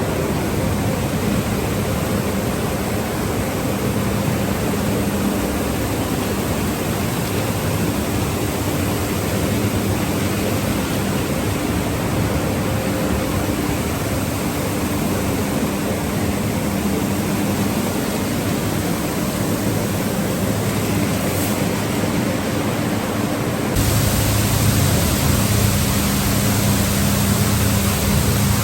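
Automatic car wash tunnel equipment running with a steady, loud rush of noise over a low hum. It changes abruptly to a louder, fuller noise about 24 seconds in.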